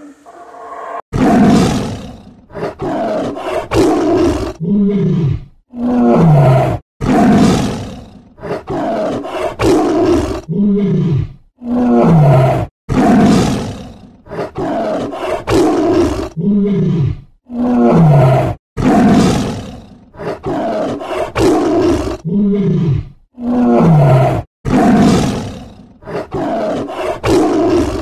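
Tiger roaring over and over, starting about a second in: a loud call roughly every two seconds, each trailing off in a falling moan.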